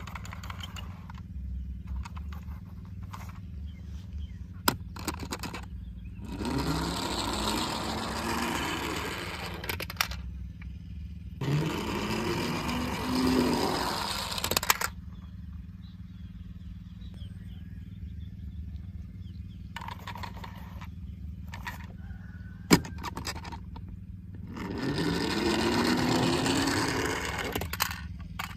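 An engine revving up three times, each time rising in pitch and then holding, over a steady low hum, with a few sharp clicks in between.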